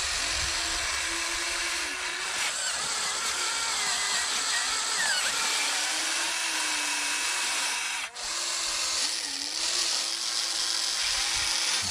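Electric motors and gearing of a Huina V4 remote-control excavator running steadily, a drill-like whine whose pitch wavers as the arm and bucket are worked. It drops out for a moment about eight seconds in.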